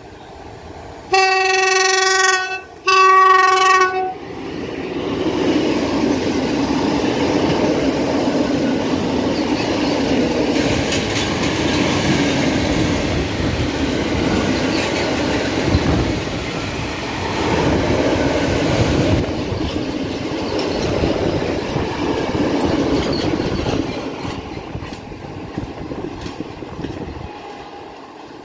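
Locomotive horn sounds two blasts about a second in, then a long freight train of cement hopper wagons rolls past close by, its wheels running over the rails for some twenty seconds before fading away.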